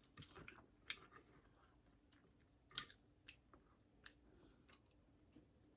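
Faint chewing of loaded nachos, with scattered soft crunches and mouth clicks; the clearest come about a second in and just under three seconds in.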